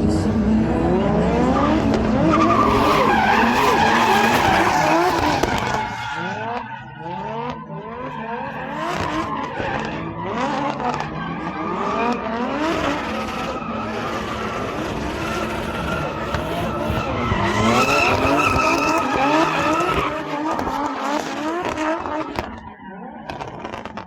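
Drift car's engine revving up and down again and again, with tyres squealing as it slides. Loudest in the first few seconds, it dips about six seconds in, builds again later and fades near the end.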